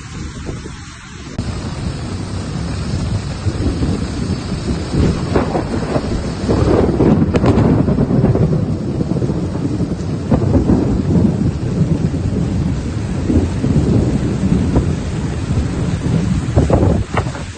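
Heavy rainstorm: loud, low rumbling noise of rain and storm that swells about two seconds in and stays strong.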